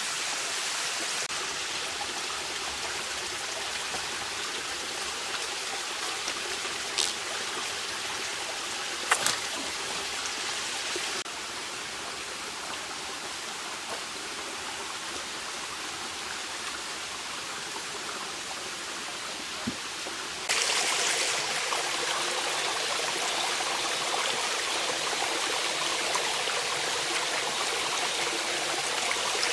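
A clear mountain stream flowing: a steady rush of running water that changes abruptly in level and tone a few times. A few brief clicks come near seven, nine and twenty seconds in.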